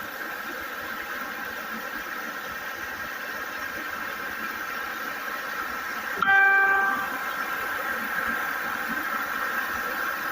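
A single short vehicle horn honk about six seconds in, over a steady high-pitched background drone.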